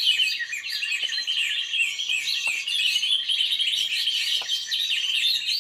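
Dense, unbroken chorus of many small birds chirping and twittering over one another, high-pitched, with a few faint ticks among them.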